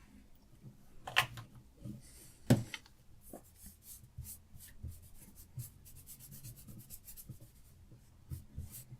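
Diamond sharpening stone on a Hapstone RS guided sharpener scraping along a survival knife's edge in a run of short, quick strokes. Two sharp clicks come about a second and two and a half seconds in.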